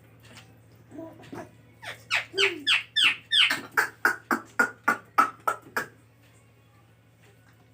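Indian ringneck parrot giving a fast string of about a dozen sharp calls, roughly three a second, each falling in pitch, starting about two seconds in and lasting about four seconds.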